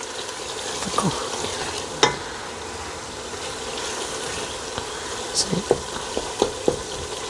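Onion and tomato masala sizzling in hot oil in an aluminium pot as a spoon stirs it, the tomatoes cooked down soft. A few light knocks of the spoon against the pot come through the sizzle.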